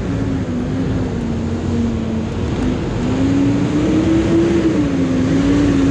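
Honda Monkey's single-cylinder four-stroke engine running under way. Its note dips slightly, rises about three seconds in, then eases back, over a steady rush of wind on the microphone.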